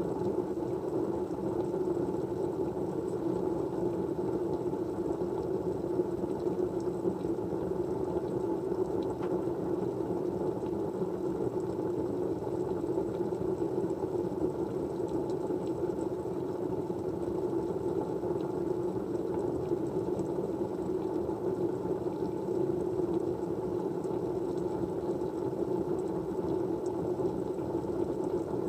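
Steady white-noise background: an even, unbroken rushing hiss, deepest and strongest in the low middle, with no change throughout.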